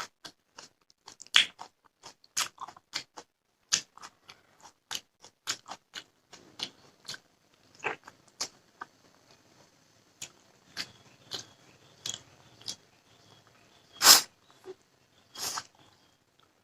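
Close-up eating sounds of rice with fish curry being chewed: a run of short wet mouth smacks and clicks, about two a second, with a louder smack about 14 s in.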